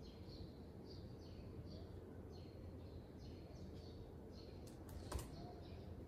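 A small bird chirping repeatedly, a few short, high, falling chirps a second, over a low steady hum; one sharp click about five seconds in.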